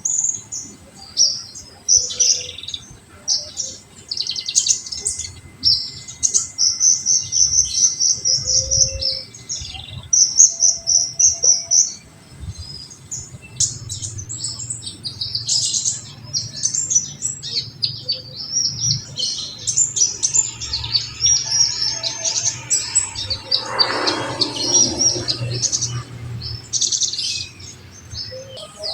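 Kolibri ninja (konin) sunbird singing. Its song comes in rapid strings of high, sharp chirps and trills, with short pauses between the strings. About 24 seconds in, a brief noisy sweep falls in pitch under the chirping.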